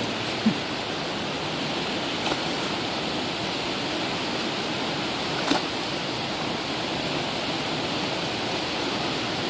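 River water rushing steadily, with a few brief knocks, the clearest about half a second and five and a half seconds in.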